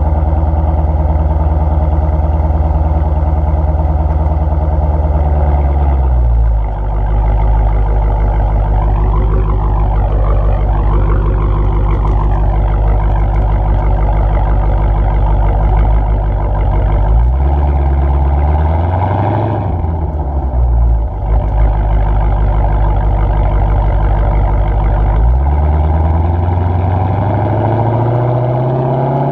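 Dodge Challenger R/T Hemi V8 exhaust with the mid mufflers deleted and the resonators kept, running while driving. The engine note drops about six seconds in, rises and falls again in the middle, then climbs steadily near the end as the car accelerates.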